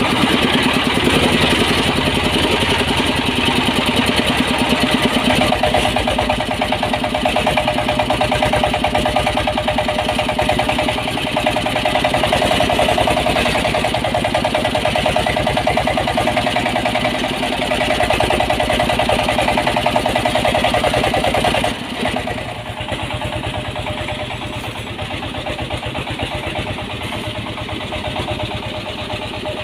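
Diesel engine of a homemade mini dump truck running steadily with a fast, even pulse. About twenty-two seconds in it turns quieter and duller and keeps running.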